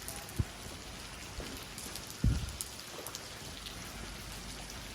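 Steady rain falling, with scattered drops ticking close by. Two short low thumps stand out, one about half a second in and a louder one about two seconds in.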